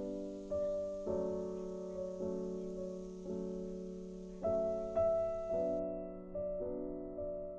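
Background piano music: soft chords struck about once a second, each one ringing and fading before the next.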